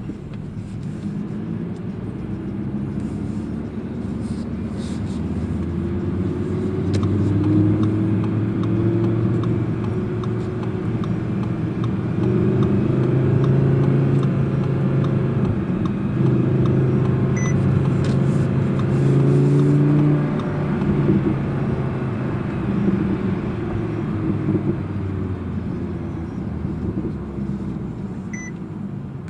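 Audi R8 V10 Plus's V10 engine running under way, its note growing louder to a peak around the middle and then easing off.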